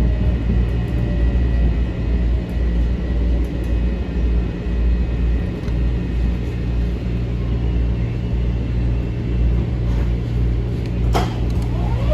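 Steady low rumble inside a Metro-North M7 electric train car, with faint steady whine tones above it. A sharp click comes near the end.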